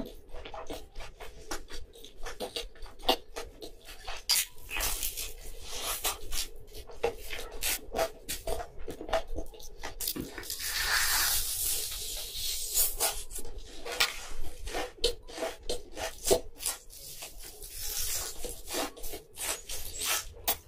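Close-miked eating of cheesy pizza and a fried shrimp ring: many quick mouth clicks of chewing, with a longer crunchy stretch about ten seconds in.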